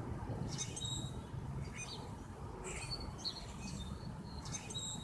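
Small birds chirping, short high calls repeated every second or so, over a low steady hum that fades out about a second and a half in.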